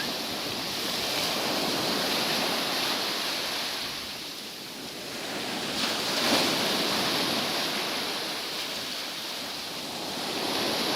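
Sea surf washing onto a beach, its steady rush swelling and ebbing slowly, easing off around the middle and building again soon after.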